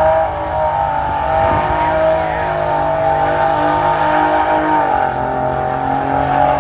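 Race truck's old Detroit diesel engine running hard down the drag strip, holding a high steady pitch that drops slightly about five seconds in.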